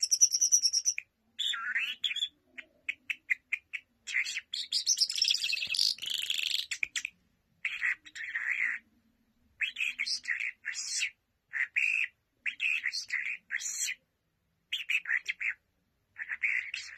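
Small birds chirping and twittering in short repeated bursts with brief gaps between, and a longer, busier run of twittering about four to seven seconds in.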